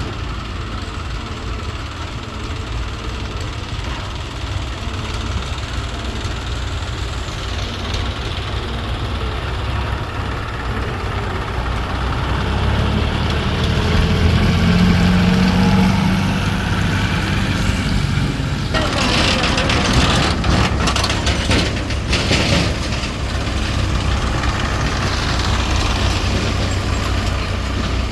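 Diesel tractor and loader engines running steadily, swelling somewhat in the middle. About two-thirds of the way in, several seconds of rattling, rushing noise join them.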